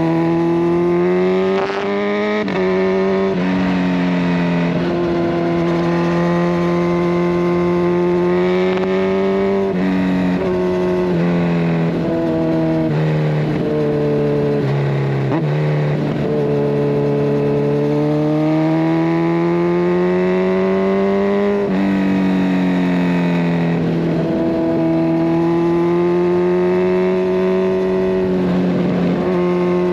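Kawasaki Ninja 1000SX inline-four engine on the move through a decatted Scorpion Red Power exhaust. Its note rises steadily as the bike pulls, then drops sharply at gear changes and off throttle, with a quick series of changes in the middle.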